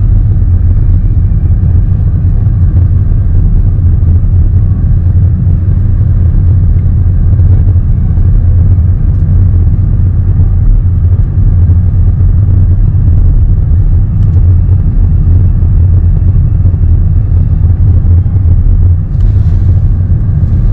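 Steady, loud low rumble of a car driving, heard from inside the cabin: engine and road noise with no changes in pace.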